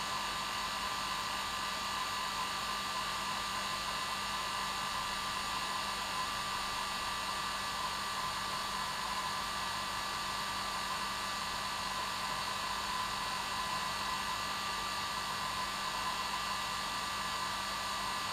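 Hair dryer running steadily: an even rush of air with a constant high whine and a low motor hum, unchanging throughout.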